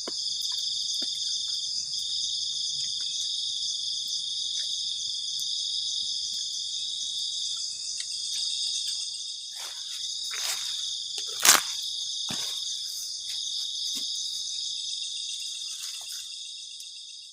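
A night chorus of crickets, a steady dense high chirring. A few soft knocks come in the second half, with one sharp crack, the loudest sound, about two-thirds of the way in.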